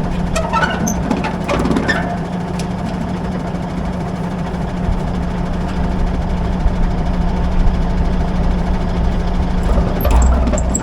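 A farm vehicle's engine running steadily: a continuous low drone with a steady hum. The low rumble swells briefly near the end.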